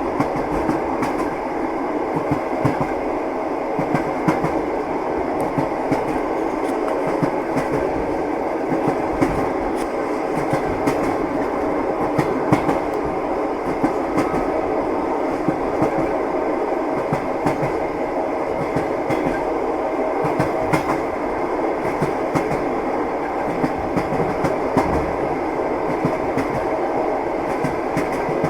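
Train wheels running over the rails: a steady rolling rumble with frequent irregular knocks of the wheels on the rail joints.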